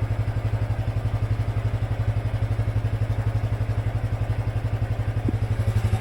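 Honda Super Cub 110's air-cooled single-cylinder four-stroke engine idling, with a steady, even putter of about a dozen beats a second.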